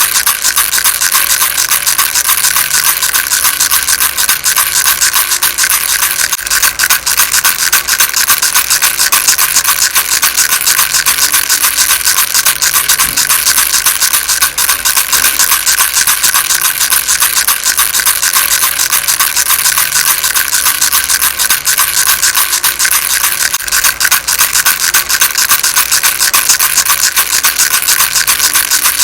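Baby rattle shaken steadily: a dense, fast, high-pitched rattling that goes on without pause.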